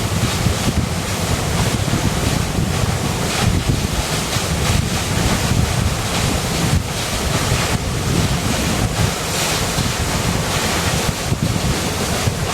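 River water rushing steadily, a loud continuous wash of noise with a deep rumble underneath.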